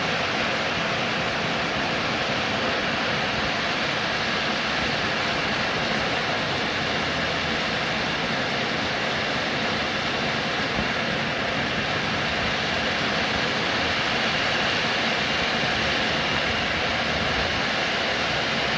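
Steady, even rain: a constant hiss of falling rain with no single drops standing out and no thunder.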